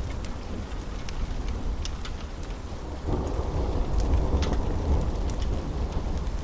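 Steady rain with low rolling thunder that swells about three seconds in. Scattered sharp pops of a crackling wood fire sound throughout.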